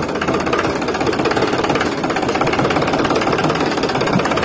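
Toy model tractor running: a steady, engine-like drone with a fast, even pulse.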